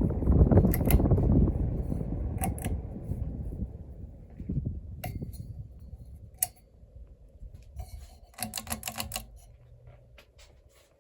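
Casablanca Panama II ceiling fan's air rushing over the microphone, dying away steadily as the fan coasts down from high speed, with a few single clicks and a quick run of clicks near the end.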